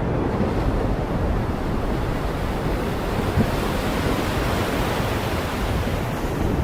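Heavy rain pouring steadily, a dense hiss with a strong low rumble underneath.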